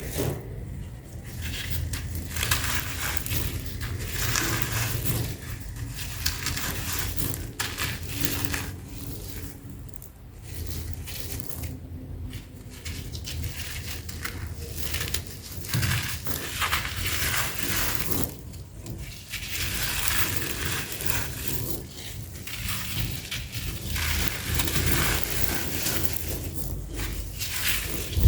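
Sand-cement chunks being crushed and crumbled, a dense gritty crackle that runs on in spells with a few brief pauses.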